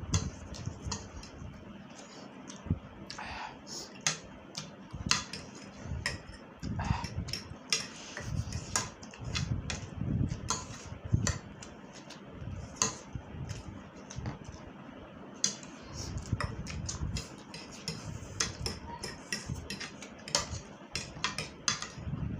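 A person eating spicy instant noodles at close range: chewing and mouth sounds in short, irregular bursts, with many sharp clicks of cutlery against a bowl or plate.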